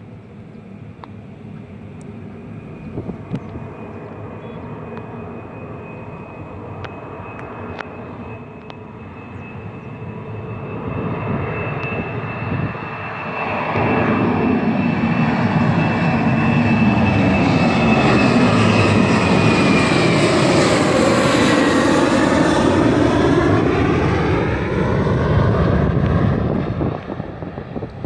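Boeing 737-900ER jet engines at takeoff thrust, growing from a steady high whine to a loud, full sound as the airliner rolls and lifts off. The pitch drops as it passes by, about two-thirds of the way in, and the sound eases off near the end.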